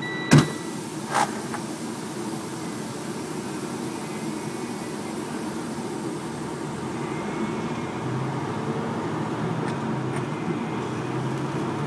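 Steady engine and road noise inside a moving truck's cab. A sharp knock comes about half a second in and a smaller one about a second later, and the engine hum grows a little louder about eight seconds in.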